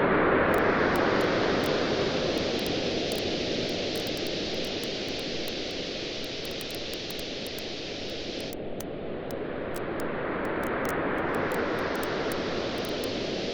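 Waves washing onto a beach, the surge loudest near the start, easing off in the middle and building again later, with the steady small crackles and pops of a wood bonfire burning.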